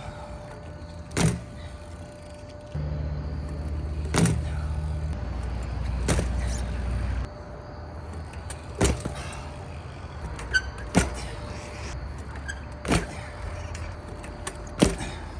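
Sharp knocks and clacks every couple of seconds, with a steady low engine-like hum from about three seconds in to about seven seconds in.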